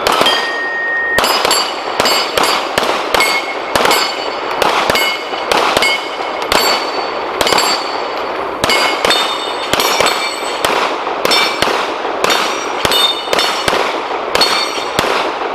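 Two handguns firing rapid, uneven strings of shots at steel plate targets, about two to three shots a second, with the struck steel plates ringing with a metallic ping after many of the shots.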